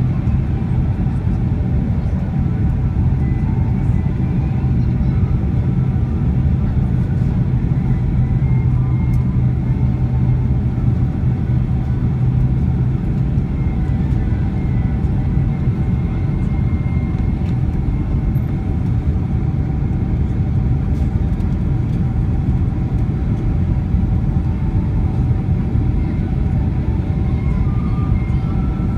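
Steady cabin noise of a Boeing 767-300 airliner in flight on approach: the drone of the engines and airflow, with faint steady tones above it. A low hum drops out about twelve seconds in.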